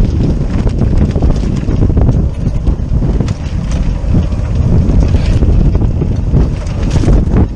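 Wind buffeting the microphone aboard a sailboat: a loud, gusty low rumble that rises and falls throughout.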